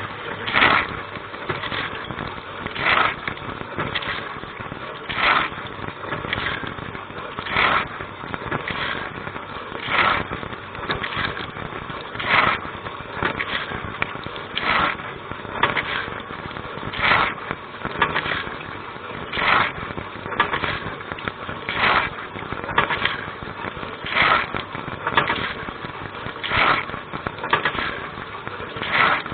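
Dishwasher wash cycle heard from inside the tub: a steady rush of spraying water, with a swish about every 1.2 s as the rotating spray arm's jets sweep past. Every second swish is louder.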